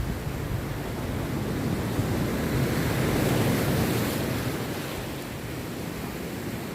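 Rough sea waves breaking and washing on the shore, one swell building louder a couple of seconds in and then easing off.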